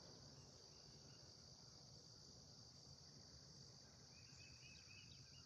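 Faint steady high-pitched trilling of crickets or other insects, with a few faint bird chirps near the end.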